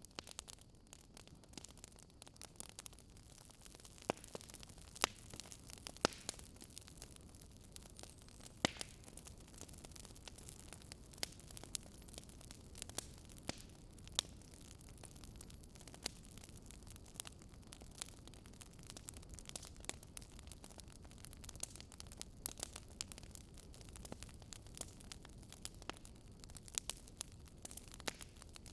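Wood fire crackling: irregular sharp pops and snaps over a soft, steady low rumble of burning.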